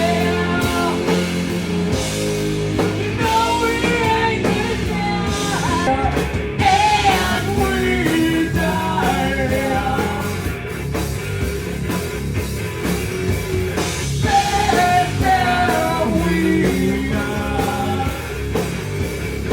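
A live rock band playing a song: guitar, bass and drums with a vocal line sung over them.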